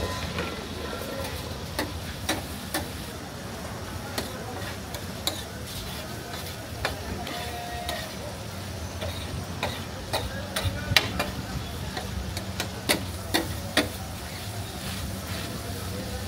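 Liver frying on a large flat tawa griddle: a steady sizzle under a metal spatula scraping and clicking against the griddle, with sharp clicks scattered throughout and clustering more densely in the second half.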